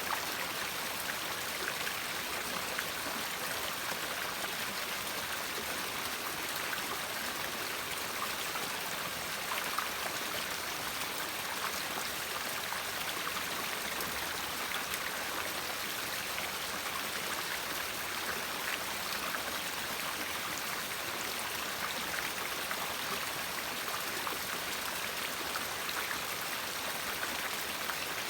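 A river flowing steadily, water rushing and babbling over stones with many small splashes and drips.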